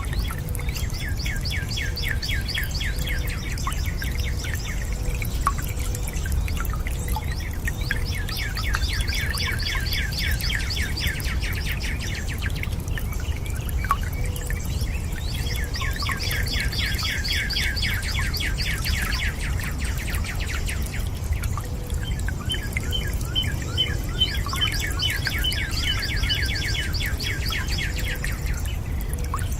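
A bird singing a rapid trill, four bouts of about four to five seconds each, over a steady low rush of running water.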